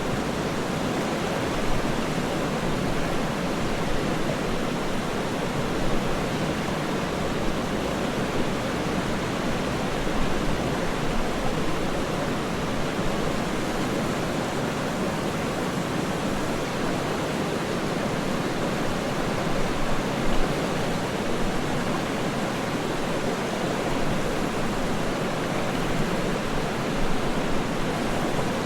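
Waterfall: a steady, even rush of falling water with small irregular surges.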